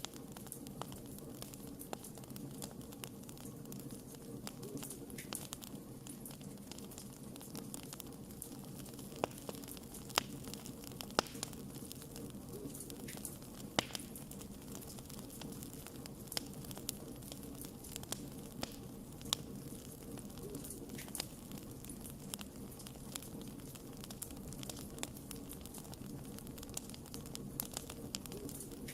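Wood campfire crackling: a steady low rush of burning, with frequent small pops and a few louder snaps scattered through.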